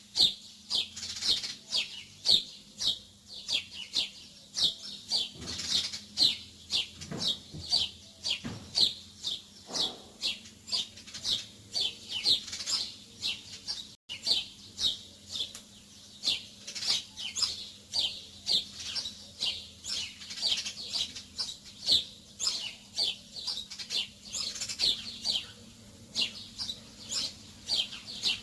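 Small birds chirping busily: a continuous run of short, high, falling chirps, about two to three a second. There is a brief dropout about halfway through.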